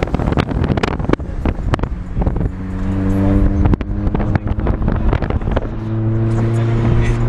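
Car engine running steadily, with a string of sharp flaps and knocks from wind buffeting the microphone; the steady engine tone grows stronger near the end.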